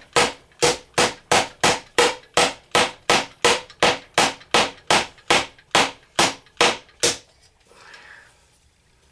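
Small kit hammer striking a hard, dried-out treasure dig block over and over, about three sharp blows a second, loud and even, stopping about seven seconds in.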